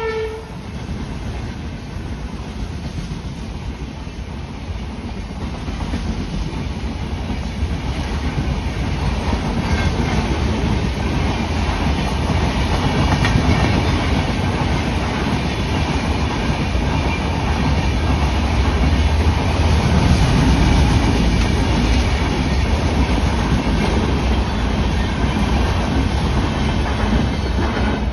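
Train passing at speed over the rails, a continuous rumble and rattle of wheels with clickety-clack. It grows louder over the first dozen seconds and then stays loud.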